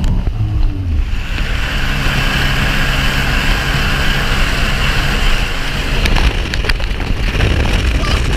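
Sea-Doo Wake 215 jet ski running under way, its engine drone steady beneath a loud hiss of spray and wind that comes up about a second in.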